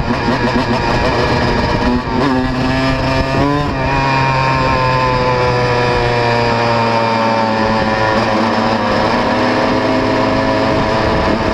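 125 cc two-stroke motocross bike engine running, with two quick throttle blips about two and three and a half seconds in, then a long, slowly falling engine note that climbs again near the end.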